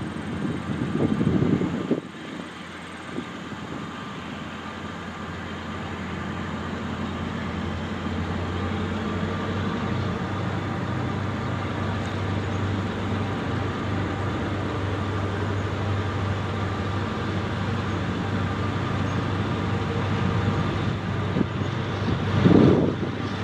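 Diesel freight train running: a steady engine hum that builds over the first several seconds and then holds at a constant level. Short louder rumbles come right at the start and again near the end.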